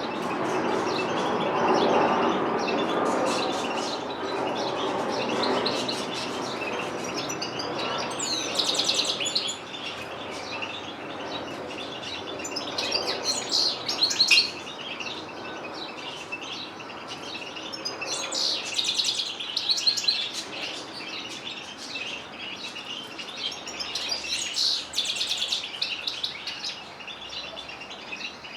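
Canaries and goldfinches singing: rapid, high twittering phrases that swell in bursts every few seconds. Under them a low background rumble fades away over the first several seconds.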